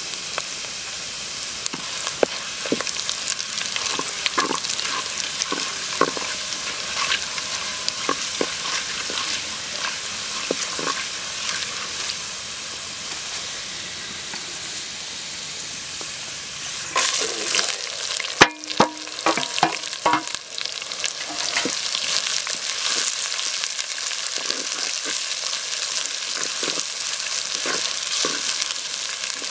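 Oil sizzling in a clay pot, with dried red chillies, garlic and whole spices frying, and scattered ladle clicks and scrapes. About 17 seconds in, sliced onions are tipped in from a steel plate with a few seconds of clatter and scraping, and the sizzle is louder after that.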